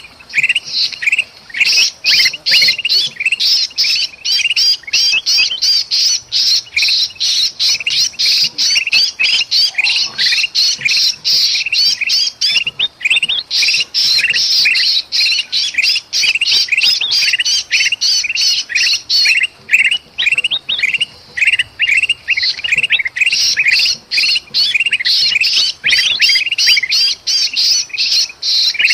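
Bulbuls (kutilang emas and kutilang) giving a dense, rapid stream of harsh chirps and squawks, several a second: agitated alarm calls mixed with the distress calls of a trapped bulbul.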